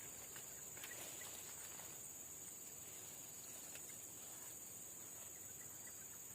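Steady insect chorus: a continuous high-pitched drone with a few faint ticks scattered through it.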